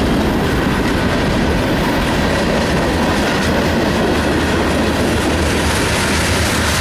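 A freight train's cars rolling past close by: a loud, steady noise of steel wheels running on the rails as boxcars, tank cars and a covered hopper go through.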